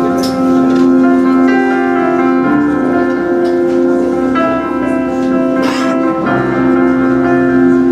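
Live band music: a slow instrumental intro of long held chords, changing every two seconds or so.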